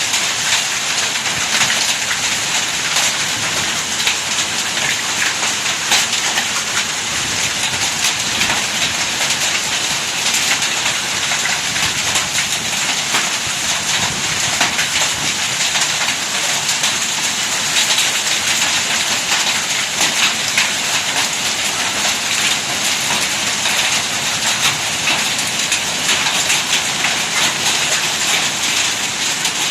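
Heavy hailstorm: hailstones and rain pelting down in a dense, steady patter full of sharp little ticks of impact.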